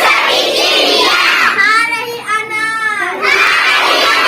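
A group of children calling out and chanting together in loud, high voices, in long drawn-out phrases.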